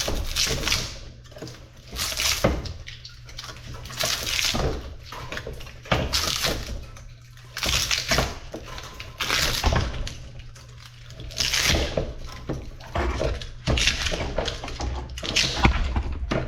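Repeated rough scraping and clattering strokes from stripping copper windings out of a small electric motor, about one every two seconds, over a low steady hum.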